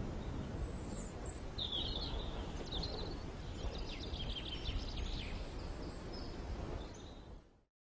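Birds chirping and calling in short high notes over a steady low rumble of outdoor noise. All of it fades out quickly near the end.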